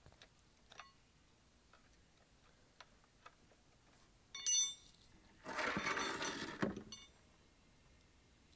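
Metal hand tool clinking against the steel drain bolt and oil pan as the 17 mm drain bolt is worked loose: scattered small ringing clinks, the loudest a few seconds in. This is followed by a rough scraping noise lasting about a second and a half.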